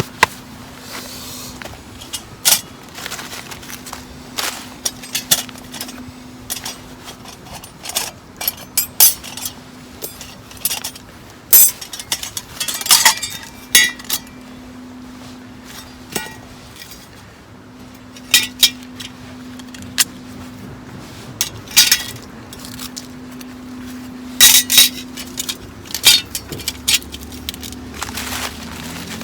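Metal camp cookware and gear clinking and clattering as it is handled and packed away: irregular sharp clinks, a few ringing briefly.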